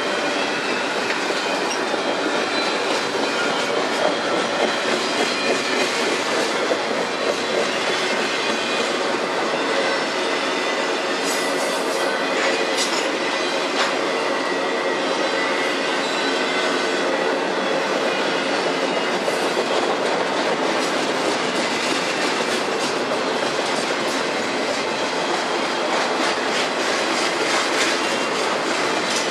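Double-stack container well cars of a freight train rolling past: a steady rumble of steel wheels on rail with rhythmic clickety-clack.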